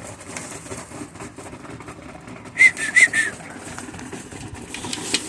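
Steady rushing wind noise, broken about two and a half seconds in by three short high chirps in quick succession.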